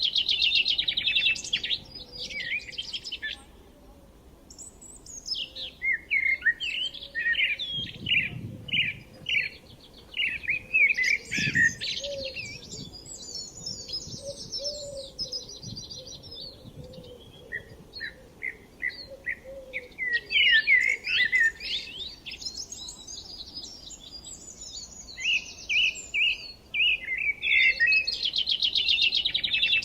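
Songbirds singing: bouts of rapid chirps, trills and quick whistled phrases, at times several voices overlapping, with short pauses between bouts.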